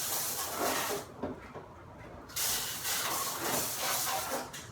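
Dishwasher spray arms spraying water, a hissing wash that comes and goes: about a second of spray, a quieter gap, then about two seconds more. The circulation pump is now driving water through the arms.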